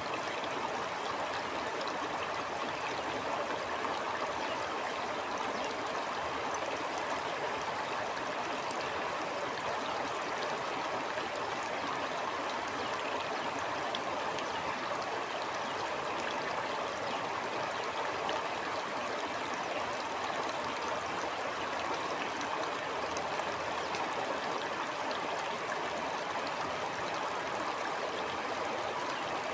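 Stream water flowing steadily over rocks, a constant rushing with fine splashing and gurgling.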